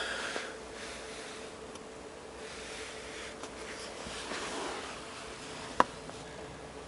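Quiet car-cabin background: faint steady hiss with a low hum, broken by a single sharp click near the end.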